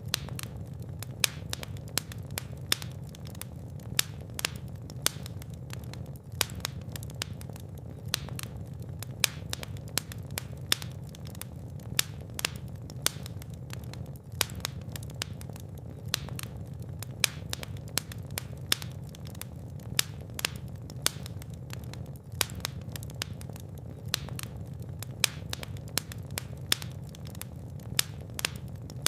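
Fire burning in a fireplace: a steady low rumble of flames under a constant stream of small crackles, with louder pops about once a second.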